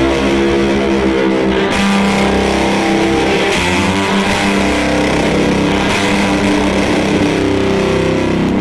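Electric guitar played through a fuzz pedal into a Fender Deluxe Reverb valve amp: loud, held chords and notes that change about every second.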